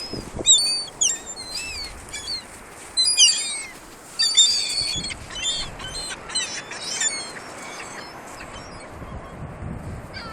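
Gulls calling, many short high cries overlapping for about the first seven seconds and then thinning out, over a steady hiss of surf.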